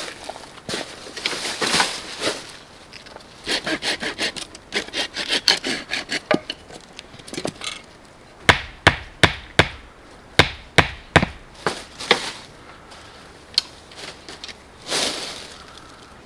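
Firewood being worked by hand: a quick run of sawing strokes, then a string of sharp wooden knocks, about two or three a second, from wood being struck, with a few rubbing scrapes around them.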